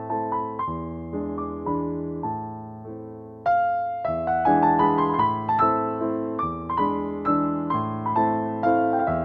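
Background piano music: gentle repeated notes and chords in a steady rhythm, with a short pause about three and a half seconds in before the notes return.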